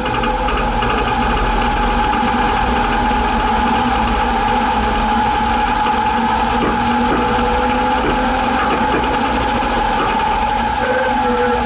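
1961 Chevrolet Biscayne engine running steadily, with a few light knocks around the middle.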